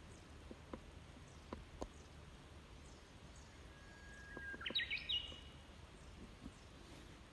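A bird gives a short whistled call that jumps upward in pitch, just before the middle, with fainter high chirps from other birds around it, over a low outdoor rumble. A few faint sharp clicks come through, one around the call.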